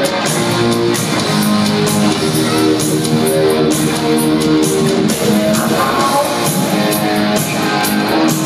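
Live hard rock band playing an instrumental passage: electric guitars holding chords over bass and drums, with no singing.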